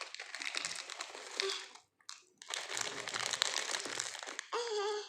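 Crinkling and rustling, like plastic packaging being handled, broken by a short drop-out about two seconds in; a brief high voice sounds near the end.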